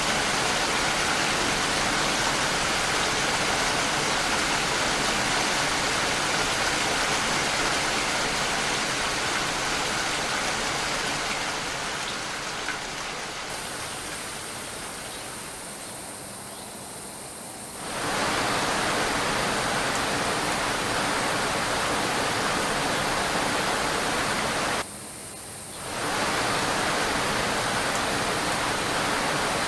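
Steady heavy rain, a dense even hiss. It sinks lower for a few seconds past the middle and comes back suddenly, then cuts out briefly for about a second near the end.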